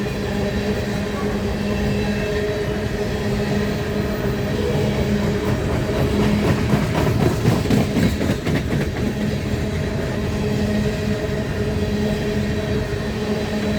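Coal train rolling by: a steady rumble and low hum, with a run of clattering wheel clicks over the rails about halfway through.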